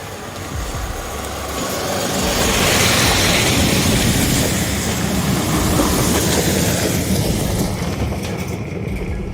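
Loud, steady rumble of heavy machinery, with a rushing noise that swells about two seconds in and slowly eases.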